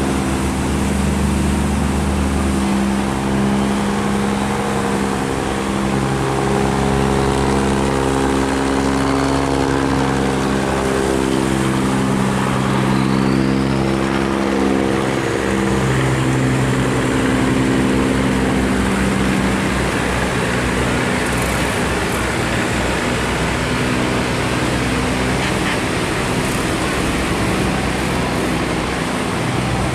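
Engines of several riverboats and barges running at once, their hum lines rising and falling as vessels move through, over a steady rushing noise.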